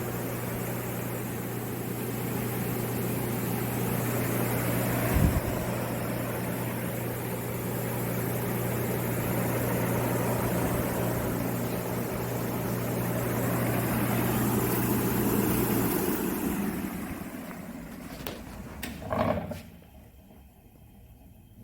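Jet JSB-10L sanding and buffing machine running: its 1 hp, 115 V motor gives a steady hum under the whoosh of the spinning sanding drum and flap head. About three-quarters of the way through, the hum cuts out and the machine winds down over a few seconds, with a couple of short knocks, to quiet.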